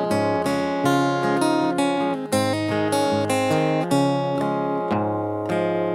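Acoustic guitar playing an instrumental outro of picked and strummed notes, with no singing.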